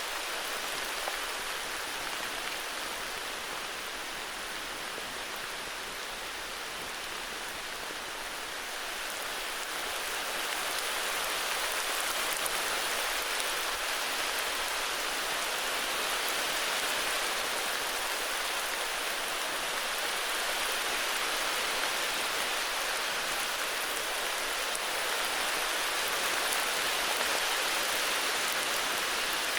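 Steady heavy rain falling, an even hiss of countless drops that grows slightly louder about a third of the way in.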